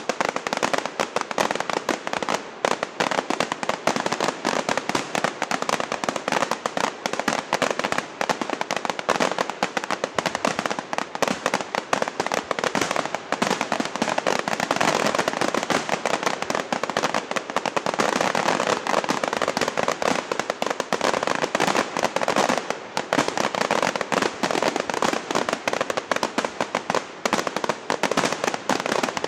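Fireworks crackling and popping in a dense, continuous rapid stream, with no deep booms.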